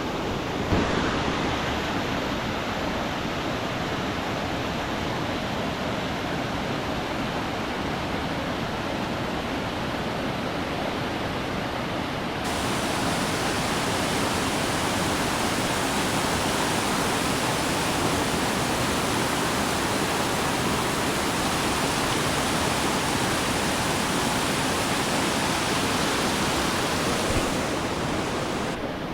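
Anna Ruby Falls, a waterfall, rushing in a steady roar of falling water. About twelve seconds in the rush suddenly gets louder and brighter and stays that way.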